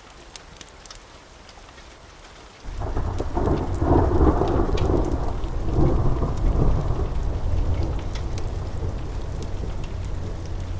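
Steady rain, then a little over two and a half seconds in a sudden thunderclap breaks into a long low rumble that rolls on for several seconds and slowly dies away under the rain.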